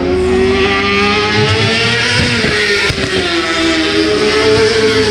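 Racing motorcycle engine running hard at high revs, its pitch climbing, dipping about three seconds in, and climbing again with the throttle.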